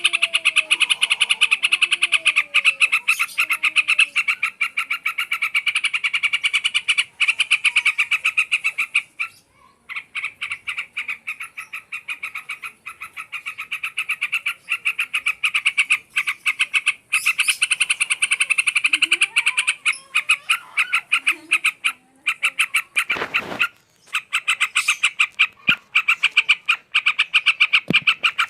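Trucukan (yellow-vented bulbul) chattering in a rapid, even run of short notes, broken once briefly about a third of the way in.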